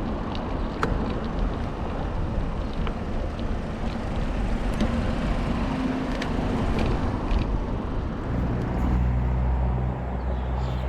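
Steady rushing wind and road noise on the microphone of an e-bike ride, with a low steady motor hum joining about eight seconds in.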